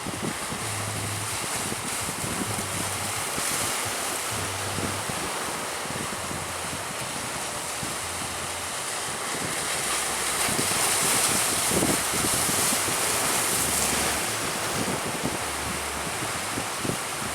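Sea waves rushing and strong wind buffeting the microphone, a steady noise that grows louder and hissier for a few seconds around the middle.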